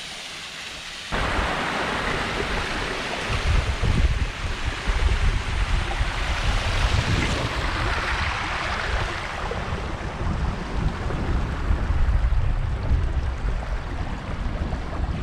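Rough-weather wind and water noise: a loud rushing hiss over a heavy, gusting low rumble, cutting in abruptly about a second in after a quieter steady hiss.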